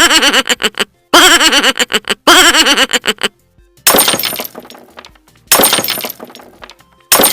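Sound-effect clips played in a row: a short wobbling pitched sound three times, then a glass-smashing crash effect three times, each crash dying away over about a second.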